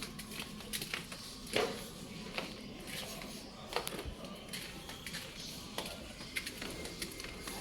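Irregular light clicks and taps, a few every second, the loudest about one and a half seconds in, over a faint steady hum.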